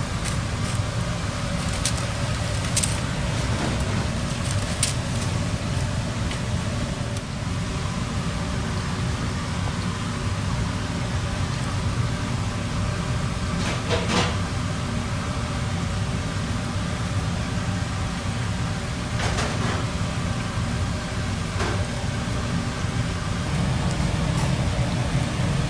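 Restaurant ambience: a steady low rumble of ventilation or air conditioning, with a few sharp clinks of dishes or utensils scattered through it.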